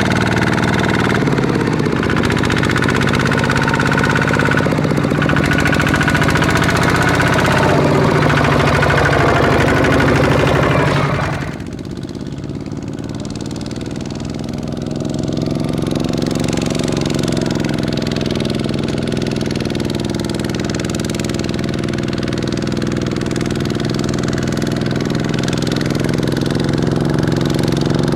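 Single-cylinder diesel engine of a Kubota ZT155 hand tractor running steadily under load. About eleven seconds in it suddenly drops to a quieter, lower note, then picks up again a few seconds later.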